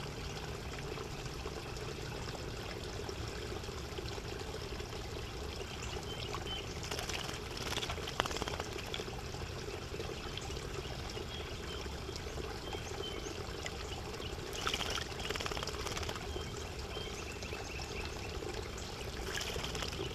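Steady trickle of running water, with a few brief louder rustling moments.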